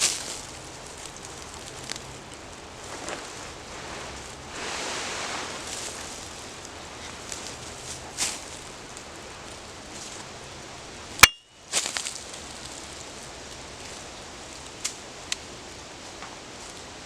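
Steady outdoor forest ambience with rustling and scattered small clicks and knocks, with one sharp click about eleven seconds in.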